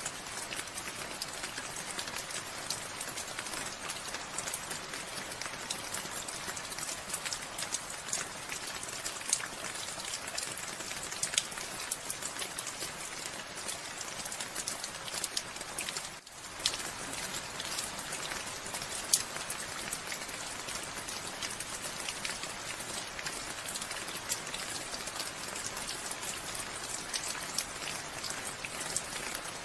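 Steady rain falling, with many close individual drop hits over the even hiss. The sound cuts out for a moment about halfway through, then carries on.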